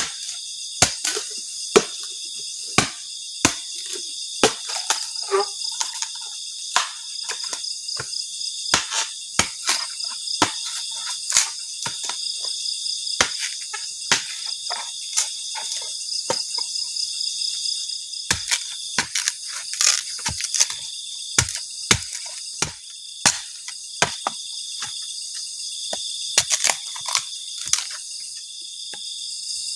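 Steady high-pitched chorus of crickets and other insects, some of it pulsing, crossed by irregular sharp snaps and knocks about once or twice a second.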